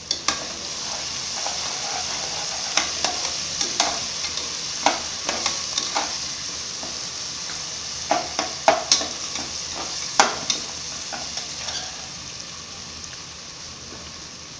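Ground spice paste and onions sizzling in hot oil in an aluminium pressure cooker while a steel spatula stirs, with sharp clinks and scrapes of the spatula against the metal pot scattered through the first twelve seconds. The paste is being fried until the oil separates.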